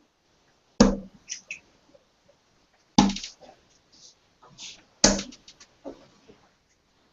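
Three darts hitting a dartboard one after another, each a sharp impact about two seconds apart, with a few small clicks after each.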